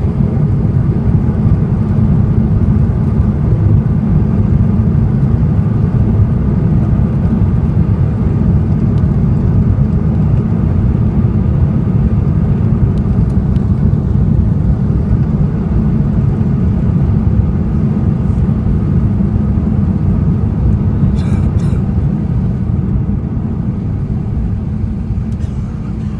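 Loud, steady low rumble of engine and airflow noise inside the cabin of an Airbus A380 during landing, with a few faint clicks about three quarters of the way through.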